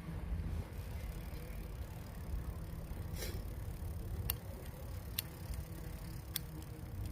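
Bicycle clicking and rattling, three sharp clicks a second or so apart in the second half, over a steady low rumble of wind on the action-camera microphone.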